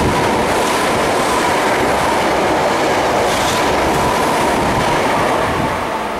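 Hankyu electric train passing close alongside the platform at speed: a loud, steady rush of wheel and rail noise with a faint steady whine. It falls off near the end as the last car clears.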